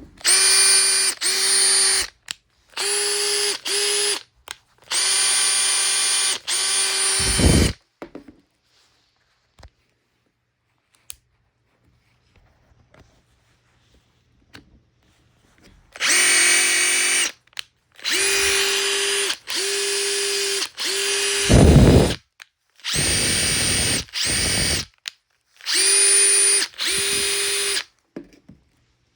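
Makita TP141D 18 V cordless 4-mode impact driver running unloaded in short trigger pulls of one to two seconds, each a steady high motor-and-gear whine. Two of the runs end with a falling hum as the motor winds down. This is a function check of the freshly serviced tool.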